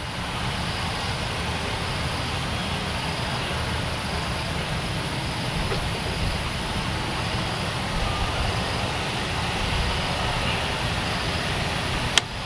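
Jet airliner engines running: a steady low rumble with a hiss above it, holding at an even level throughout.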